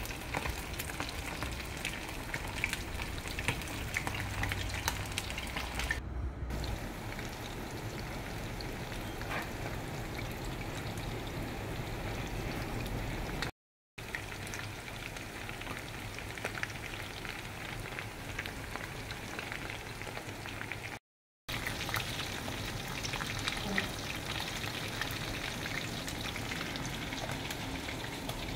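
Chicken pieces deep-frying in a pan of hot oil over low heat: a steady sizzle with fine crackling. The sound cuts out completely for a moment twice, about halfway through and again about three-quarters of the way through.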